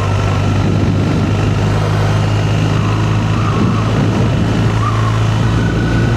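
BMW R1250R's boxer-twin engine running steadily under load as the motorcycle climbs a steep mountain pass in a low gear, with steady wind and road noise.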